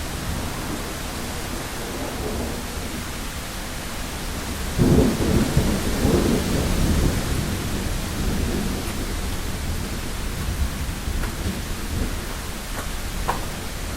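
Steady heavy rain on a window, with a clap of thunder about five seconds in that rumbles on for two or three seconds before fading back under the rain.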